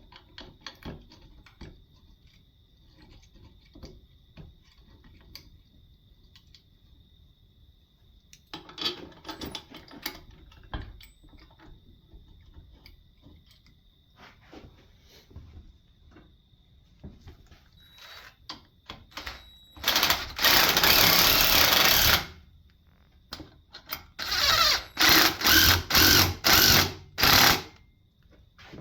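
Power tool run in bursts: one long burst of about two seconds, then five short bursts in quick succession. Before it come scattered clicks and knocks.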